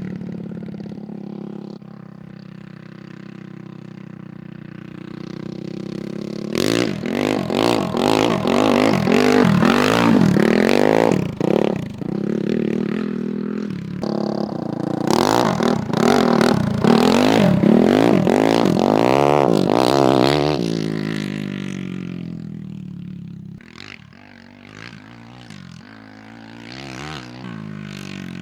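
Honda CRF450 single-cylinder four-stroke motocross engine in a go-kart, revving up and down hard as it is driven. It is quieter at first, gets loud a few seconds in with the pitch rising and falling again and again, then fades near the end.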